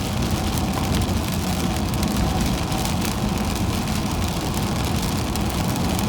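Inside a car driving in heavy rain: a steady low road and engine rumble with a hiss of wet tyres and rain, and a light patter of raindrops on the car.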